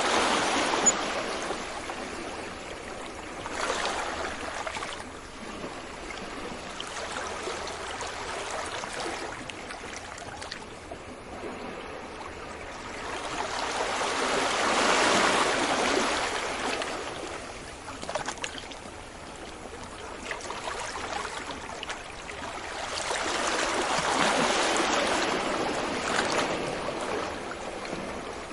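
Ocean waves breaking on a beach: a steady wash of surf that swells and fades, with three larger waves breaking, near the start, about halfway through and near the end.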